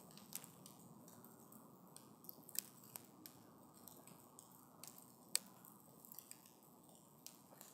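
Wood campfire crackling: irregular small pops and snaps over a faint low rustle, with the sharpest pop a little past the middle.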